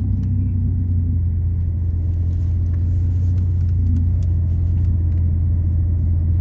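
BMW M2 Competition's twin-turbo straight-six idling steadily in park, a low even drone.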